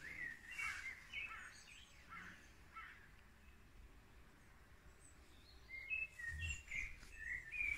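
Small birds chirping faintly, short high notes in two spells, one near the start and one near the end.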